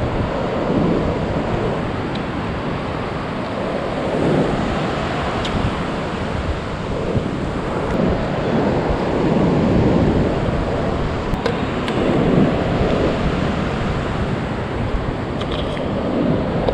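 Pacific Ocean surf breaking and washing up the beach, swelling and easing every few seconds, with wind buffeting the microphone.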